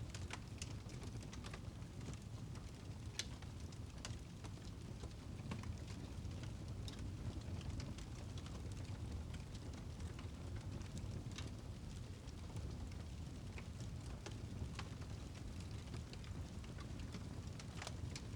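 Wood fire crackling in a fireplace: a steady low rumble of burning with scattered, irregular sharp pops and crackles.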